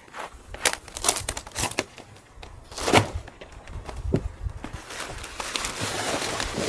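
Irregular crunching and crackling of dry material being handled or trodden, turning into a denser, steadier rustling from about five seconds in.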